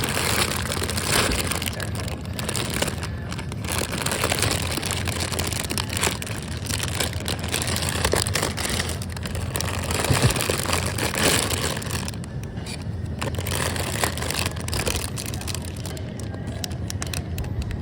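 A plastic produce bag rustling and crinkling in spells while apples are handled, over steady store background noise.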